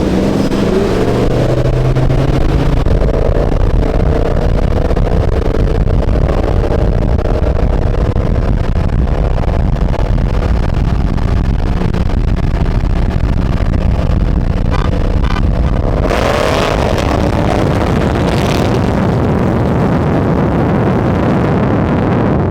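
Car engine running with a deep, steady rumble, with a brief rising rev about 16 seconds in.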